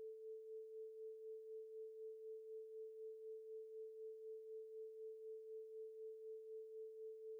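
Faint steady electronic pure tone, a single held note, wavering slightly in loudness about four times a second.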